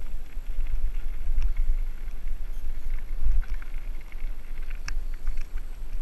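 Wind buffeting the microphone of a mountain bike descending a trail, with irregular clicks and rattles from the bike over rough ground, the sharpest about a second and a half in and near the end.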